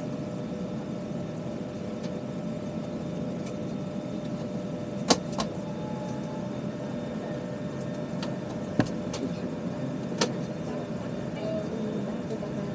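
Steady hum of an Airbus A320's cabin air and systems while parked at the gate, with a few short sharp clicks or knocks; the loudest come about five and nine seconds in.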